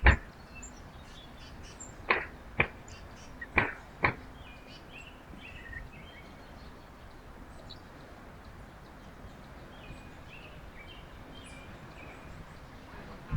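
Small birds chirping faintly around a backyard feeder, with a few sharp taps or knocks in pairs in the first four seconds.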